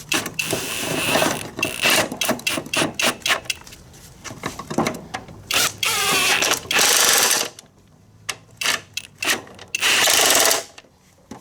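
Power drill driving bolts in short runs of about a second each, twice, between clicks and clinks of metal parts and tools being handled.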